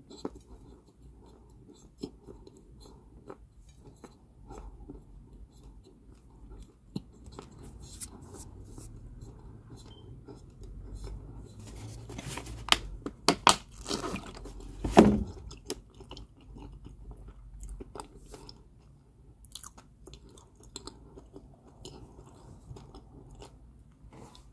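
A person biting and chewing crunchy baked balls of Georgia White kaolin clay: soft crunching throughout, with a run of loud, sharp crunches about halfway through.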